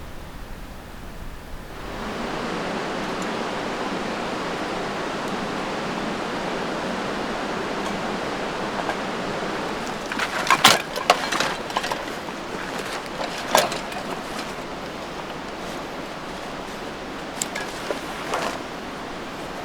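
Steady rushing noise like running water, starting suddenly about two seconds in, with a scattering of sharp clicks and knocks in the second half.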